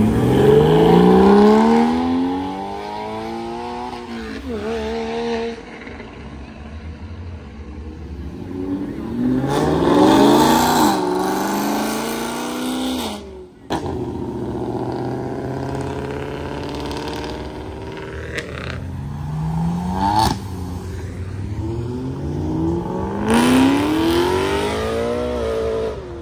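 Sports cars, a Porsche Cayman first, accelerating hard away one after another: three loud pulls about ten seconds apart, each engine note rising in pitch through a gear change, with a short rev blip between the second and third.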